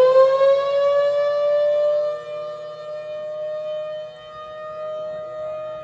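Square-horn Hurricane electromechanical siren finishing its wind-up and holding a steady, high tone rich in overtones; the pitch levels off in the first second or so and the sound grows quieter about two seconds in.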